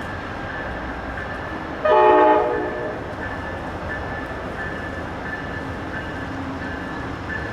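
A train running by with steady rumbling rail noise and a high tone repeating throughout. A little under two seconds in, a diesel locomotive horn sounds one short, loud blast.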